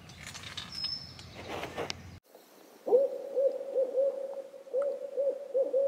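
Faint background with a brief high chirp, then after a sudden cut a bird's hooting call: one held note with repeated swooping hoots that rise into it.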